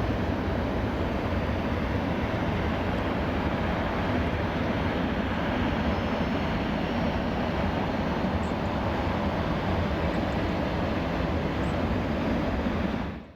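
Boeing 737-800 jet with CFM56-7B turbofan engines, a steady unbroken rush of engine and air noise, cutting off suddenly near the end.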